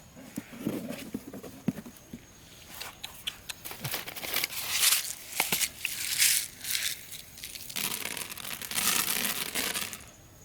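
Irregular bursts of rustling and crinkling, with a few sharp clicks, as material is handled.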